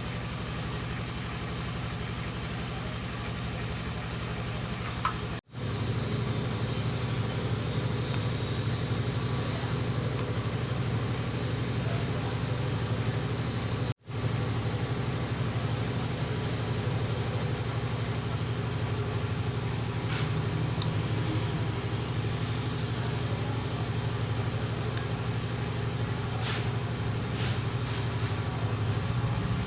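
A steady motor hum, running evenly, broken twice by abrupt cuts to silence about five and fourteen seconds in, with a few light ticks near the end.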